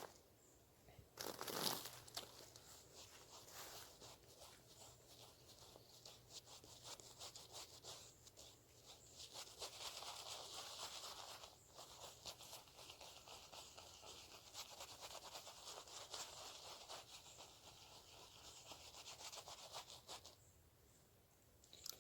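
Shaving brush working lather, its wet bristles rubbing with a faint, fine crackle that swells and fades in long strokes. A brief louder handling knock comes near the start.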